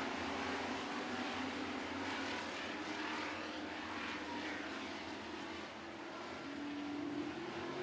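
A field of dirt-track super trucks running at racing speed, their engines merging into a steady drone whose pitch shifts as trucks go by.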